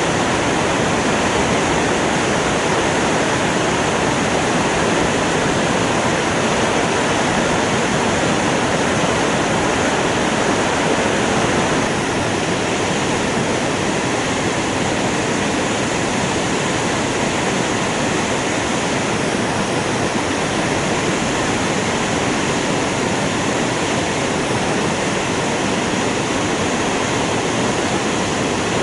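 Waterfall in high flow after very heavy rains: a loud, steady rush of falling water, dropping slightly in level about twelve seconds in.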